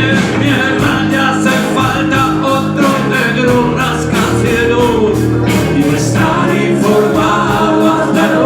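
Rock band playing a stretch of a song without sung lyrics, with drums keeping a steady beat under held notes.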